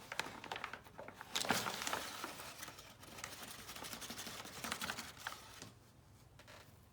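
Kitchen handling sounds of a half cup of flour being measured into a mixing bowl: sharp clicks and knocks of the cup and bowl with rustling, busiest in the first two seconds, then softer scraping that stops near the end.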